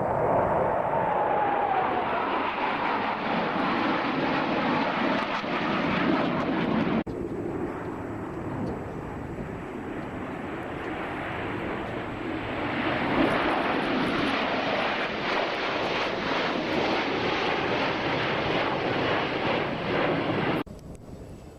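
Airplane engine noise as an aircraft flies past, with a tone that falls in pitch over the first couple of seconds. The sound drops abruptly about seven seconds in, carries on, rises again, and cuts off shortly before the end.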